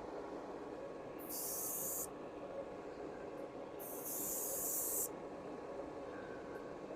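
Airbrush spraying paint in two short hissing bursts: one just over a second in lasting under a second, and a longer one about four seconds in lasting just over a second.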